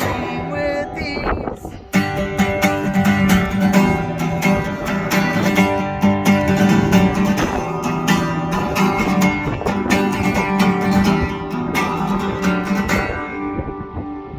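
Strummed guitar chords playing out the end of a song. There is a brief break about two seconds in, then steady strumming, and the last chord rings and fades near the end.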